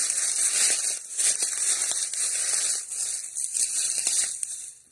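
Footsteps crunching and rustling through dry fallen leaves, with irregular crackles.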